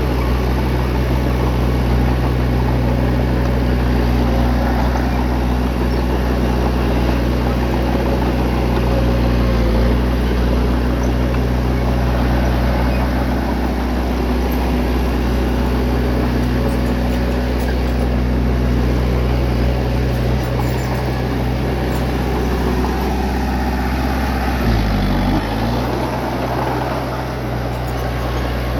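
Bulldozer's diesel engine running steadily. Its pitch dips briefly and comes back about 25 seconds in.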